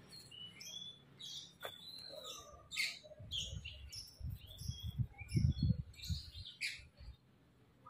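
Small birds chirping repeatedly in short high calls. A low rumble comes in from about three seconds in and dies away about six and a half seconds in.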